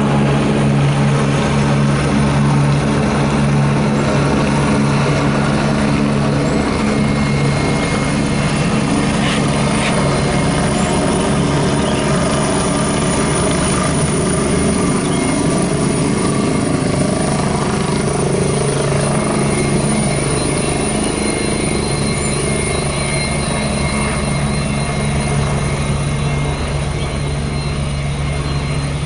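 Agusta Westland AW119 helicopter running: its single turboshaft engine and rotor make a loud, steady drone with a strong low hum. The low hum weakens through the middle and comes back strongly near the end.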